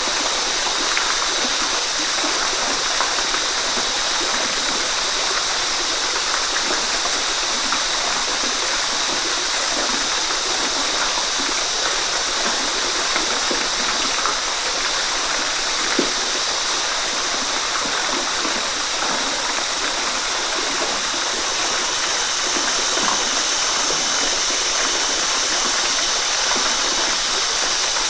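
Waterfall: a steady, even rush of falling and splashing water, with small splashes flecking through it.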